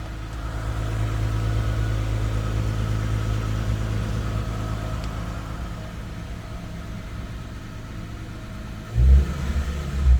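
Lexus GS350's 3.5-litre V6 idling on a cold start through a full Invidia cat-back exhaust, a steady low exhaust drone. About nine seconds in comes a brief loud low burst, likely a quick blip of the throttle.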